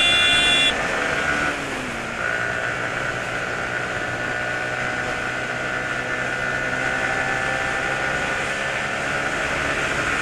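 A Yamaha sport motorcycle's engine running steadily at cruising speed, heard from the rider's seat with road and wind noise. A horn honks once for about a second right at the start.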